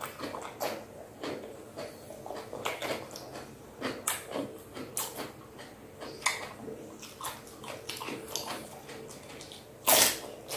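A person chewing raw cucumber: irregular wet crunches, then one loud crunching bite into a cucumber chunk near the end.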